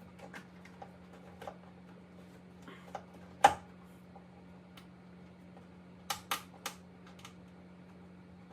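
Scattered clicks and light knocks of tools and parts being handled in a car's engine bay. The sharpest knock comes about three and a half seconds in, and three quick clicks follow a little after six seconds, over a steady low hum.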